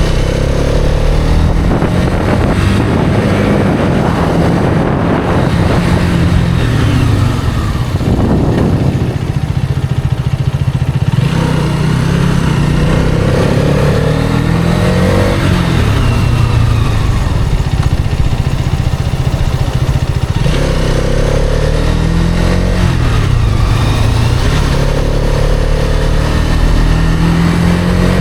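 Hero Karizma XMR motorcycle's single-cylinder engine running on the move, its pitch climbing and dropping several times as the rider accelerates and eases off.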